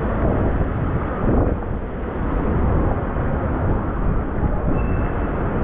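Steady outdoor street noise of passing traffic, with wind rumbling on the microphone.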